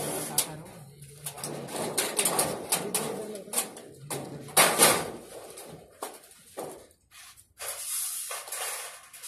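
Metal storage-shed frame rails and brackets being handled and fitted together, giving many short clicks and knocks.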